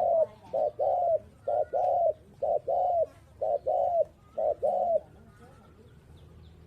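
Spotted dove cooing: a run of loud paired coos, each a short note followed by a longer note that falls off at the end, repeated about once a second. The cooing stops about five seconds in.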